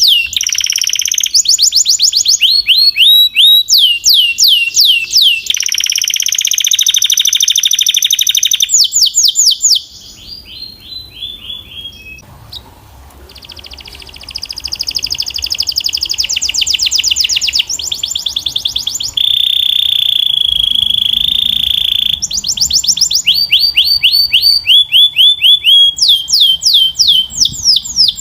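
Canary singing a long, loud song of fast trills: rows of quick sweeping notes repeated many times a second, alternating with steady buzzy rolls. About ten seconds in the song drops to a soft, quiet passage, then returns loudly a few seconds later.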